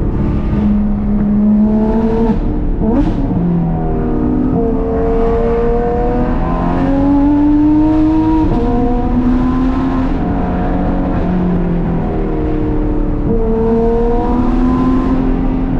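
Porsche 991.2 GT3 RS naturally aspirated flat-six, breathing through Dundon street headers and a cat-delete crack pipe, pulling up through the revs and dropping back at gear changes on a drive. There is a sharp crack at a shift about three seconds in.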